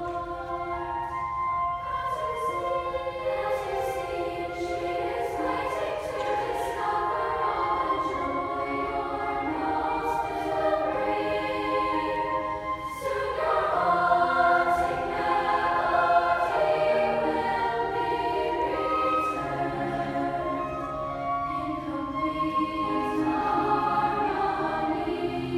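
Honors chorus singing in several parts at once, holding notes, with a swell in volume about halfway through.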